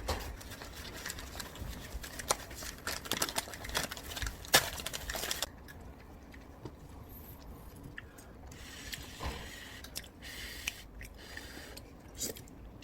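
Light clicking and scraping of small hard objects being handled: a busy run of clicks for the first five seconds or so, then scattered clicks.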